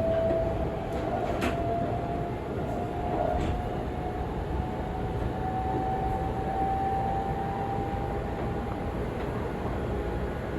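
Seibu 40000 series electric train running, with a single motor whine that climbs slowly in pitch as the train gathers speed, over a dense rumble of wheels on track. A couple of faint clicks in the first few seconds.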